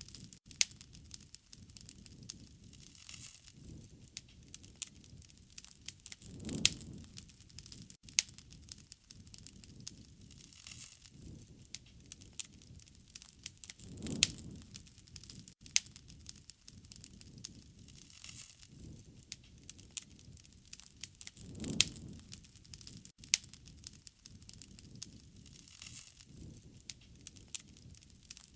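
Wood fire crackling, with frequent sharp pops and snaps of burning wood. A low rushing swell of the flames rises and fades about every seven and a half seconds.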